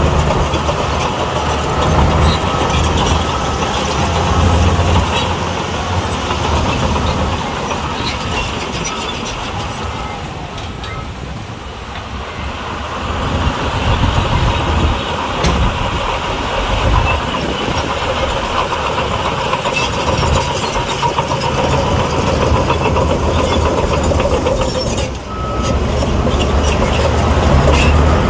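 Heavy diesel earthmoving machinery running under load, with intermittent metallic clanks; the engine sound eases off somewhat around the middle and then picks up again.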